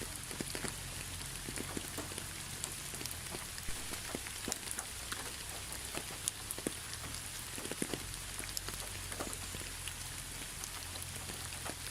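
Steady rain falling, an even hiss with many separate drops ticking close by, over a low steady rumble.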